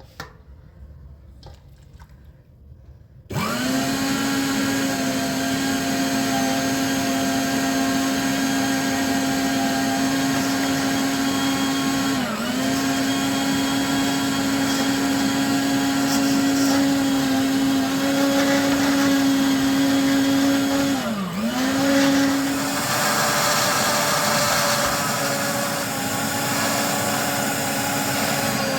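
Electric kitchen appliance motor, such as a blender, food processor or meat grinder, switching on about three seconds in and running at a steady whine. Its pitch sags and recovers twice, once near the middle and once later on, as if it slows briefly under load.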